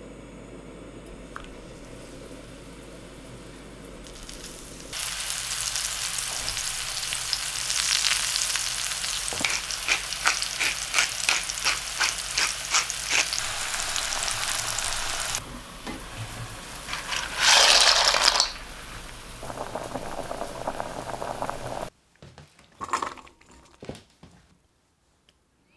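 Sweet potato slices frying in hot olive oil in a steel frying pan: a loud, steady sizzle that starts suddenly about five seconds in, with a run of evenly spaced crackles in the middle and a brief louder surge later on. The sizzle cuts off abruptly near the end, leaving a few faint knocks.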